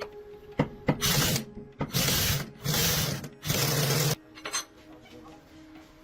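Four rasping scraping strokes, each about half a second long, like a file or abrasive tool worked back and forth, preceded by two light clicks.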